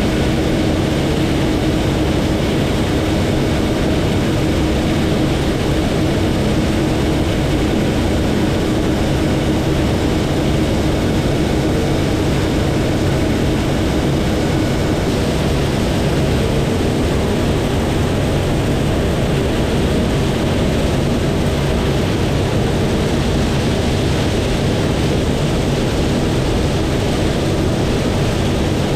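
Heavy harvest machinery running steadily under load: an even, unbroken drone of big diesel engines and threshing gear with a steady hum through it.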